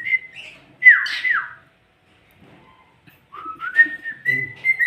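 Pet bird whistling a human-style whistled tune in imitation of people: mostly level notes at one pitch, a louder phrase with falling slides about a second in, a pause, then the whistling starts again.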